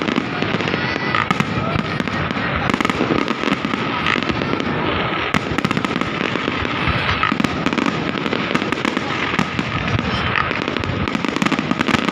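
Fireworks display going off continuously: rapid, overlapping bangs and crackling shells with no break.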